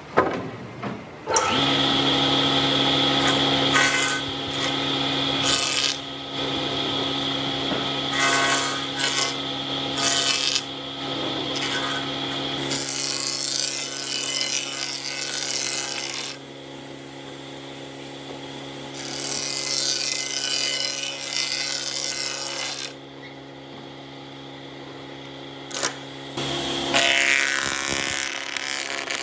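Power-tool motor running steadily with a low hum, while wood is cut or shaped in irregular bouts of hissing, scraping noise that start and stop every few seconds.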